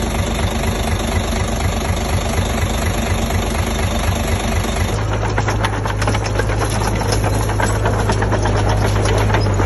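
Diesel engine of heavy earthmoving equipment running continuously. About halfway through, its note shifts to a steadier, deeper hum, with dense clattering over it.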